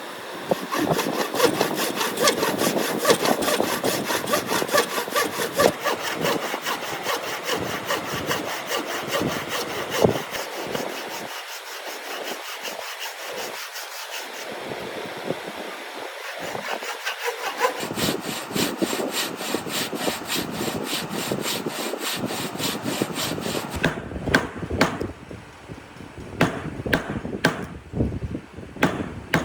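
Hand saw cutting through wood in quick, steady back-and-forth strokes, cutting a dovetail joint. Near the end the sawing stops and a few sharp knocks follow.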